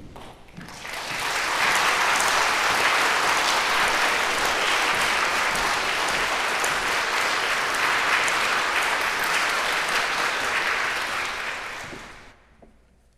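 Audience applauding: the clapping swells in over the first second or two, holds steady, then dies away near the end.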